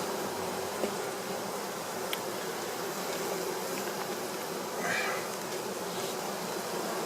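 Steady buzzing of a swarm of honey bees around an open hive, with a couple of light clicks and a brief swell about five seconds in.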